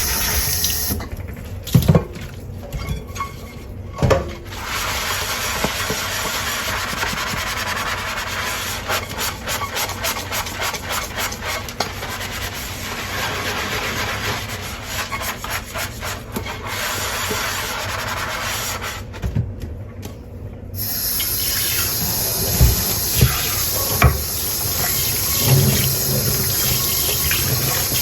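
Dishes being washed by hand at a sink: a sponge scrubbing in quick strokes, running tap water, and now and then a knock of crockery. The water stops briefly twice and comes back on.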